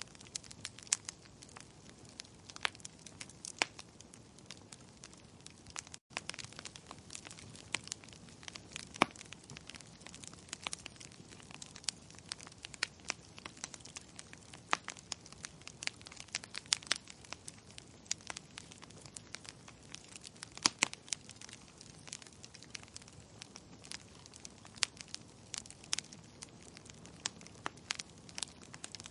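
Burning firewood crackling: irregular sharp pops and snaps over a low steady hiss of the fire.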